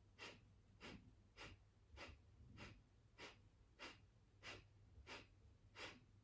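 Kapalabhati breathing: a round of ten short, forceful exhalations pumped out through the nose, each a brief whoosh of air, about one every 0.6 seconds.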